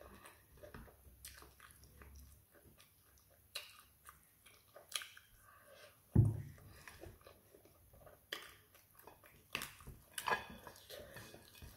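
Close-up eating sounds of a person chewing fried plantain and fish eaten by hand: scattered wet mouth clicks and lip smacks. One dull thump about six seconds in is the loudest sound.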